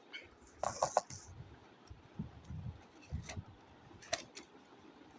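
Quiet handling noises: a few scattered clicks and light knocks, a small cluster about a second in, over soft low thuds.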